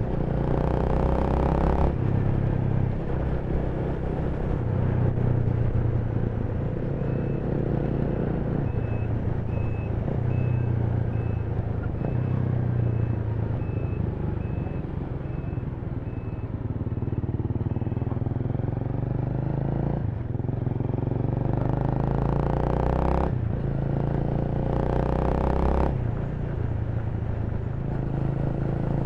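Honda Rebel 300's single-cylinder engine running under way, its pitch stepping up and down with throttle and gear changes, with bursts of rushing noise near the start and in the last third. A faint high beep repeats about once a second for some ten seconds in the middle.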